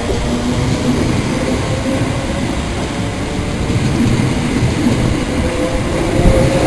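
A train moving through the station, a loud steady rumble with a faint steady tone underneath.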